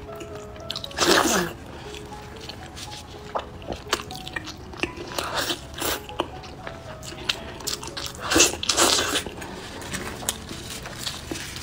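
Close-up eating sounds: wet chewing and biting of braised pork knuckle skin, with many short clicks and two louder bursts, about a second in and again about three-quarters of the way through. Faint background music runs underneath.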